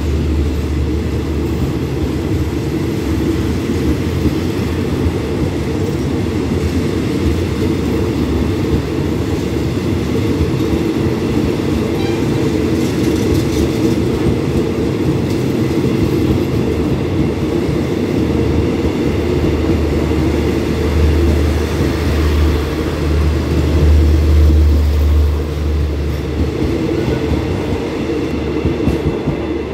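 Passenger coaches of an express train rolling past on the rails in a steady, continuous rumble. The low rumble grows heavier for a few seconds near the end.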